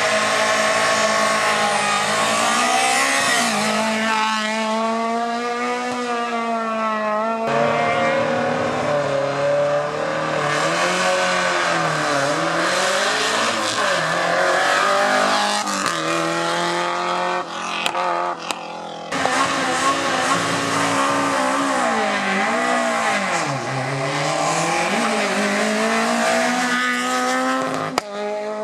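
Rally car engines driven hard, revving up and dropping in pitch through gear changes under braking and acceleration, with tyre squeal. The sound changes abruptly twice, as one car's pass gives way to the next.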